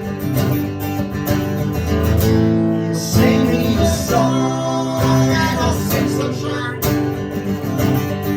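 Live band music: an instrumental passage of a song, with no singing.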